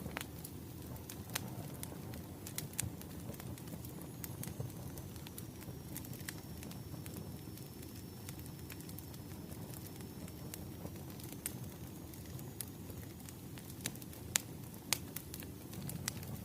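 Bonfire crackling: a steady low rumble of flames with frequent sharp pops and snaps of burning wood.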